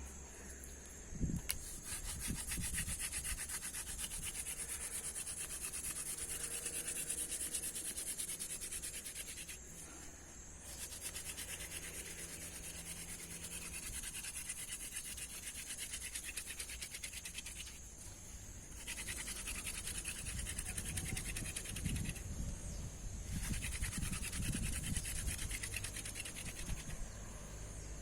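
Fast, rhythmic back-and-forth rubbing or scraping by hand, in long runs of several seconds broken by brief pauses about 10, 18, 22 and 27 seconds in.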